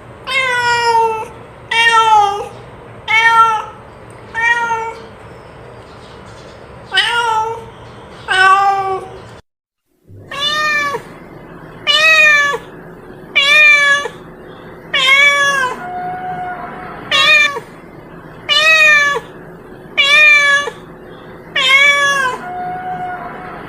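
A domestic cat meowing over and over, short falling meows about one a second. About nine and a half seconds in the recording cuts out briefly and resumes with a steady low hum behind the meows.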